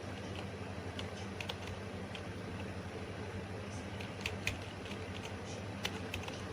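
A few irregular computer keyboard keystrokes, sharp clicks spaced a second or more apart, over a steady low hum.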